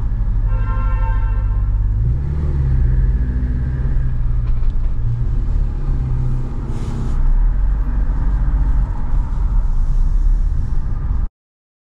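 Ferrari F8 Spider's twin-turbo V8 running at low revs, its note rising slightly about two seconds in. A car horn sounds for about a second near the start, and the sound cuts off suddenly near the end.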